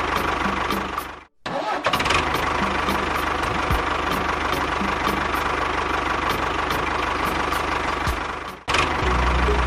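An engine or small motor running steadily with a light regular ticking, cut off abruptly about a second in and again near the end.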